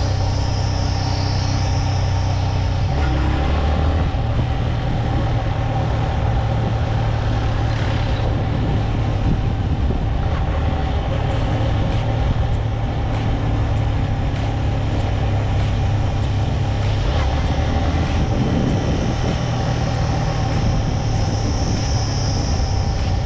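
Motorcycle engine running while being ridden, under a steady rush of wind and road noise. The engine note shifts about three seconds in and again later.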